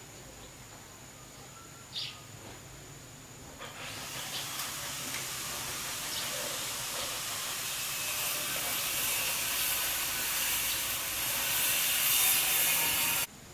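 A steady hiss that starts about four seconds in, grows gradually louder, and cuts off suddenly near the end, after a single short click.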